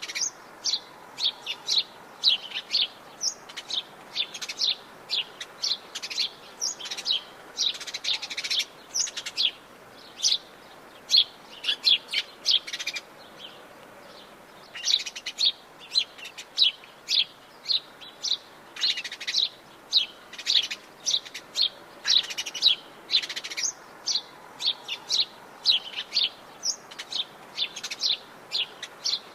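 Many birds chirping and calling in a dense chorus of short, quick notes, with a brief lull about halfway through.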